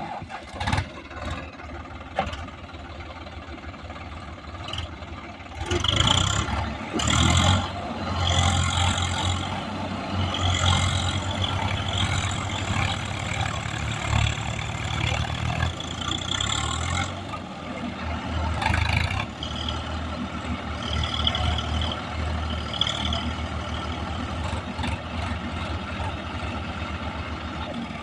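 Diesel tractor engine running and revving under load, with its pitch rising and falling. It gets louder from about six seconds in.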